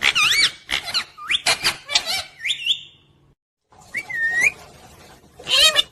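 Pet parrot chirping and whistling: a quick run of wavy calls gliding up and down in pitch, a brief break about three seconds in, then a rising chirp and a loud squawky call near the end.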